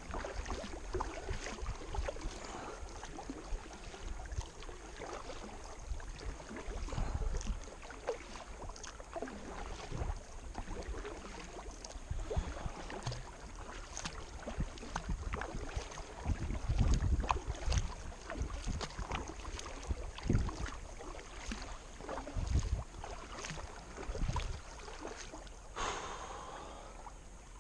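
Kayak paddle strokes splashing and dripping while paddling upstream against the current, with irregular low rumbles of wind on the microphone.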